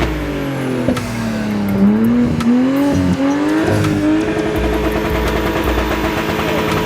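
Car engine revving, its note dipping and rising over the first few seconds, then held steady at a higher pitch from about four seconds in.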